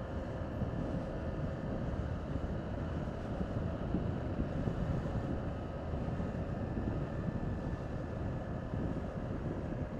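Honda CG125's single-cylinder four-stroke engine running at a steady pace under wind rush on the helmet microphone.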